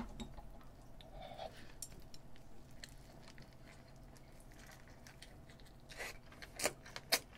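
Close-miked chewing of a mouthful of egg kimbap: soft, wet mouth sounds, with a few louder clicks near the end.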